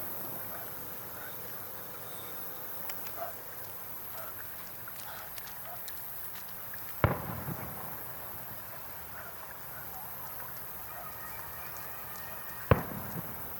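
Two fireworks shells bursting, about six seconds apart, each a sharp boom followed by a rolling echo, over the steady chatter of a crowd of spectators.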